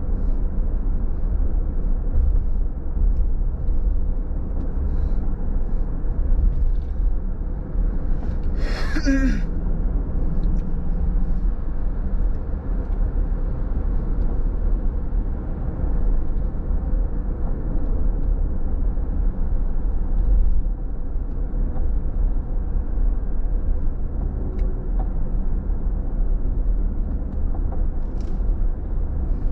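Steady road and engine rumble inside a car's cabin while driving. A brief sharp noise comes about nine seconds in.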